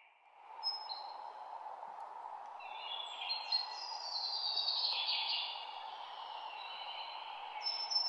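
Outdoor ambience: several birds chirping and whistling in short high calls over a steady background hiss.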